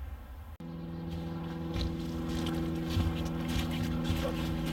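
A steady motor hum at one unchanging pitch, setting in about half a second in, with footsteps crunching on gravel.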